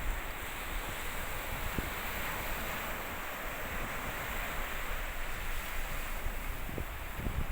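Sea waves washing onto a beach, a steady surf hiss, with wind buffeting the microphone in a few brief gusts near the end.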